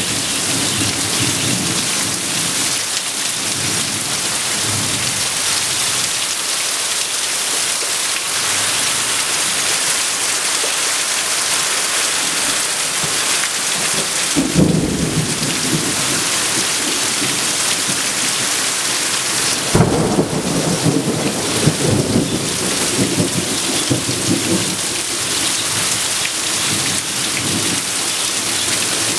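Heavy monsoon rain, a steady dense hiss, drumming on a corrugated roof with water pouring off its edge in streams. Low rumbles come and go over it, swelling early on, about halfway through, and again for several seconds in the second half.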